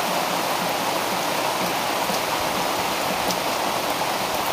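Heavy rain falling, a dense, even hiss at a steady level with a few faint ticks of drops.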